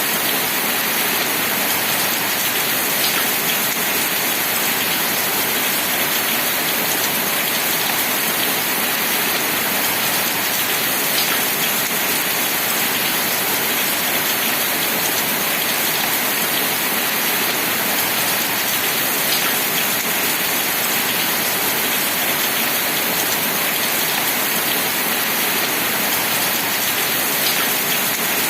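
Steady, even rain falling, a constant hiss of many drops with now and then a single louder drop tick.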